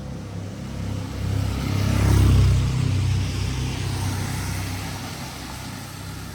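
A motor vehicle passes close by on a wet road: its engine rumble and tyre hiss swell to a peak about two seconds in and then slowly fade away.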